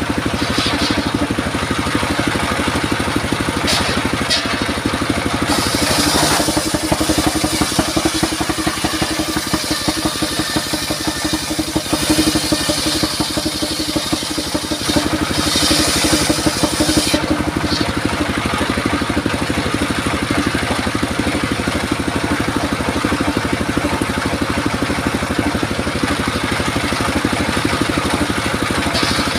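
Engine-driven circular saw running steadily while sawing durian wood, with several stretches of harsher hissing a few seconds long as the blade cuts.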